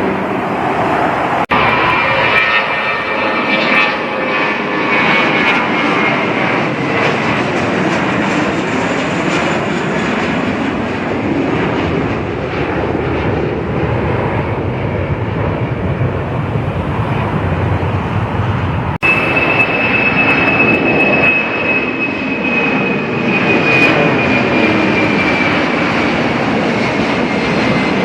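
Jet airliner engines running loud as a plane passes close by: a heavy rushing noise with a high engine whine on top that falls slowly in pitch over the last part. The sound breaks off abruptly twice, at edits, and picks up again at the same loudness.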